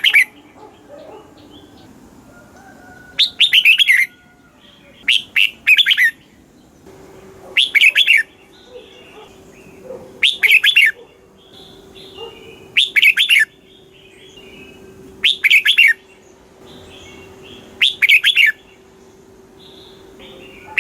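Red-whiskered bulbul singing, repeating a short phrase of several quick notes about every two and a half seconds, with fainter chirps between phrases.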